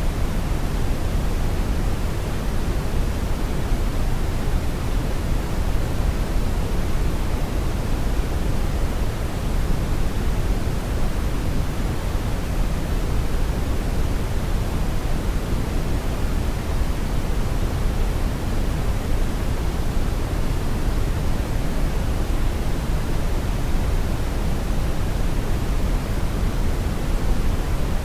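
Brown noise: a steady, deep rushing hiss, strongest in the bass and falling off toward the treble, unchanging throughout.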